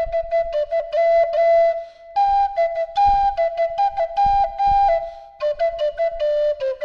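Native American drone flute in the key of A playing a melody of quick, short tongued notes broken by a few longer held ones.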